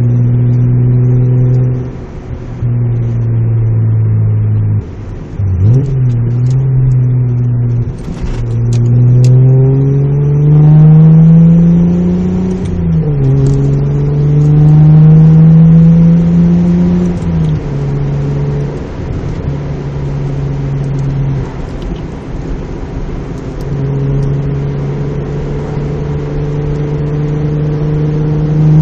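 Mazda MX-3 GS's 1.8-litre V6 exhaust, a 2¼-inch system with a test pipe and a Magnaflow street series muffler, heard from inside the cabin while driving. The engine note holds steady, then climbs twice under acceleration, each climb cutting off with a sudden drop like a gear change, before it settles into a steady cruising drone.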